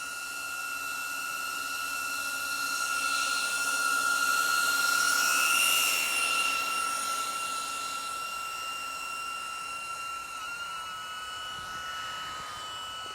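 DJI Avata FPV drone's ducted propellers whining steadily, growing louder toward the middle and then easing off, with brief wavers in pitch near the end as the throttle changes.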